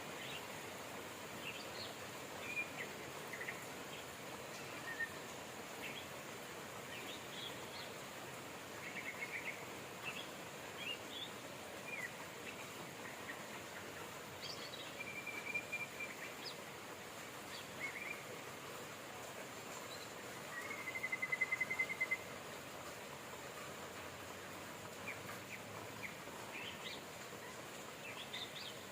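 Steady rain hiss with songbirds chirping and calling throughout. A held note comes about halfway through, and a louder rapid trill about two-thirds of the way in is the loudest call.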